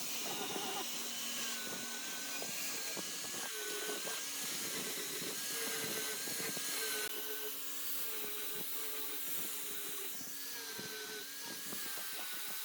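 Electric power tool running steadily while working wood, with a wavering whine and scattered small clicks and knocks.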